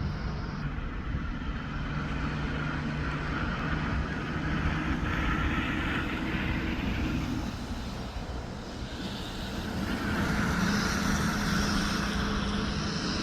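Heavy truck engine running on the road with tyre and wind noise; the engine note shifts a few times, dipping about two-thirds of the way through and building again near the end.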